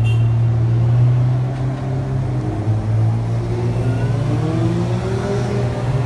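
Motor vehicle engine running with a steady low hum, rising in pitch through the second half as it speeds up.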